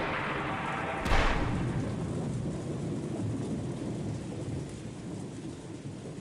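Thunderstorm: a sharp thunderclap about a second in, then a long low rumble that slowly fades over the hiss of rain.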